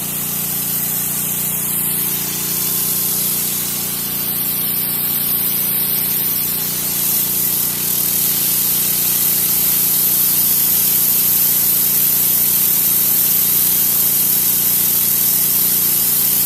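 Pressure washer jetting water onto a concrete driveway: a steady, loud hiss of spray over the constant hum of the washer's motor.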